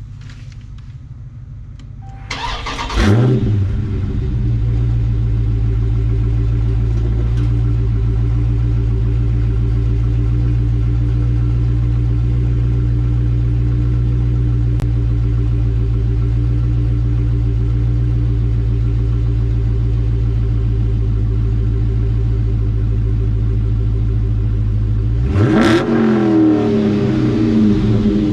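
Dodge Challenger Scat Pack's 6.4-litre HEMI V8 through its full stock exhaust. It flares up about two and a half seconds in, then idles steadily, and is revved several times near the end.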